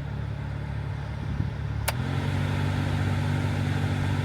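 Toyota FJ Cruiser's AC blower motor running with a steady low hum and a weird blowing sound, which the owner suspects comes from a dirty blower motor. A click about two seconds in, after which the hum grows louder and gains a higher tone.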